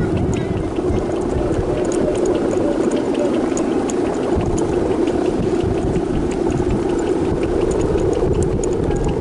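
A boat engine running steadily, with a low rumble of wind buffeting the microphone.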